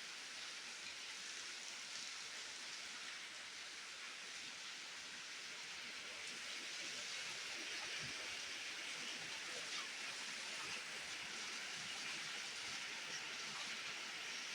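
Steady rain falling, an even hiss that grows a little louder about halfway through.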